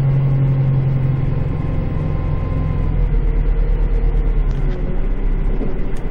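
Kubota tractor's diesel engine running, heard from inside the enclosed cab, as the machine is slowly maneuvered. Its steady low hum changes about a second in, and the loudness pulses from about three seconds on.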